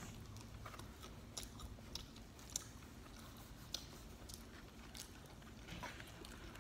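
Faint chewing and mouth sounds of people eating pizza, with scattered small clicks and taps; two sharper ticks come about halfway through.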